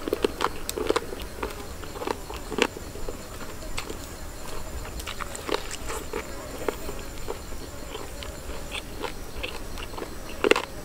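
Close-up mouth sounds of a man chewing roasted chicken leg meat: a string of irregular wet clicks and lip-smacks, busiest at the start and again near the end.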